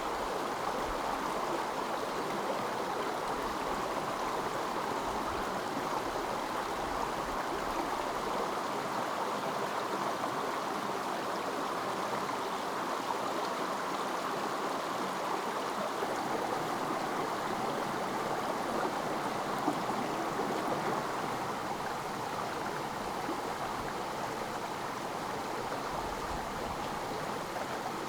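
Stream water flowing steadily with an even rushing and gurgling.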